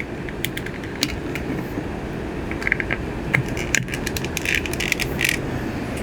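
Light clicks and small rattles of hard fittings being handled, bunched in two short flurries in the second half, over a steady low background rumble.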